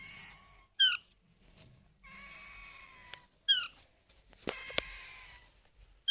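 Baby Alexandrine parakeet calling: short, loud squawks about every two and a half seconds, with longer, raspy calls between them. A few sharp clicks fall in the middle.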